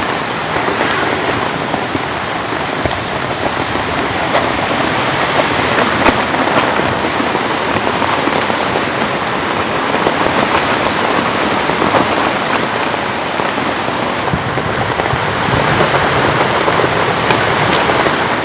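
Heavy rain falling steadily: a dense, even hiss of drops with scattered sharper drop hits.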